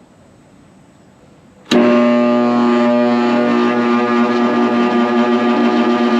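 A Yates American Y30 bandsaw's electric motor switched on through its magnetic starter, which has a newly replaced coil: a click about two seconds in, then a loud, steady electrical hum as the motor is still coming up to speed, which takes about 6 seconds.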